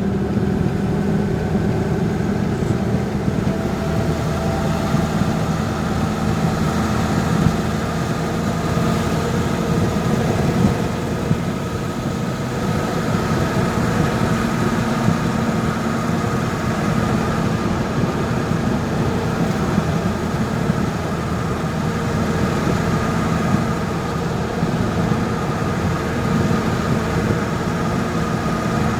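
Steady vehicle running noise heard while driving: engine hum and road noise with no marked changes.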